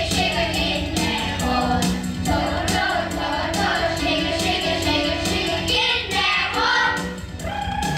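A group of children singing a song in chorus over musical accompaniment with a steady beat.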